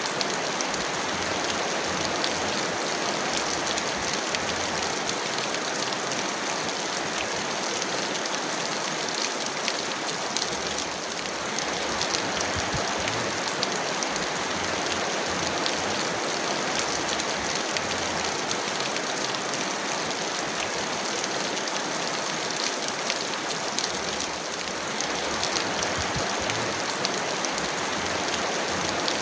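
Heavy rain falling steadily: a dense, even hiss of rain with a fine patter of individual drops.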